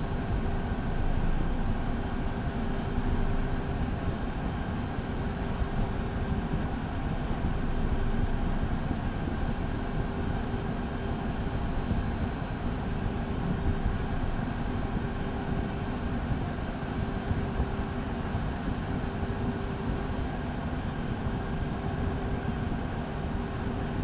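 Steady cockpit noise of a Beechcraft Premier I on the ground, its twin turbofan engines running at low power, with a faint steady hum throughout.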